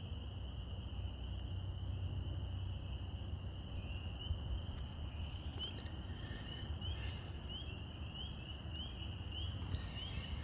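Chorus of spring peepers: a steady, high, massed calling of many frogs, with one closer peeper's short rising peeps repeating about twice a second from about four seconds in, over a low rumble.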